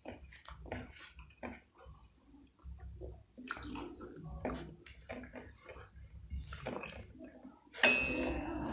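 A person chewing food with wet mouth smacks and clicks at an uneven pace. Near the end a sudden louder sound sets in and carries on.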